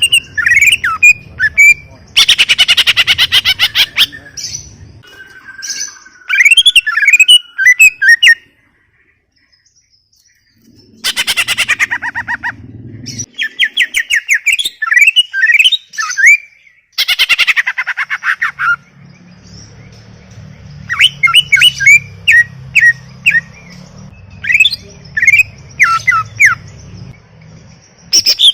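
A cucak ijo (greater green leafbird) singing in full song: fast runs of slurred whistled notes mixed with harsh, rapid rattling chatter, broken by a brief pause about a third of the way through.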